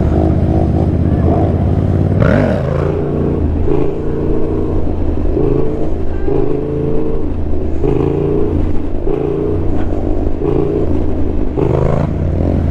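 Motorcycle engine running while riding, its pitch rising and falling again and again as the throttle is worked, with a quick rev about two seconds in.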